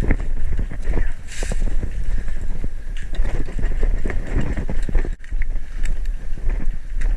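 Footsteps of a player moving over rough ground, with gear rustling and a brief hiss about a second in, over a constant low rumble of wind on the microphone.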